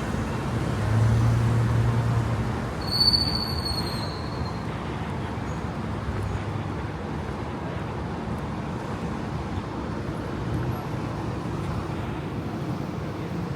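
City street ambience with steady traffic noise. A low hum swells briefly near the start, and about three seconds in comes one short, high, slightly falling squeal.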